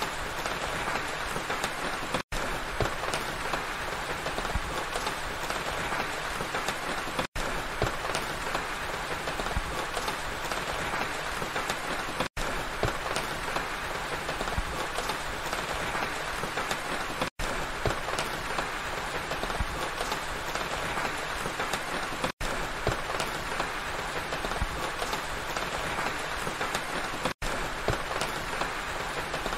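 Steady rain falling through pine trees: an even, dense hiss of drops, broken by a brief gap in the sound about every five seconds.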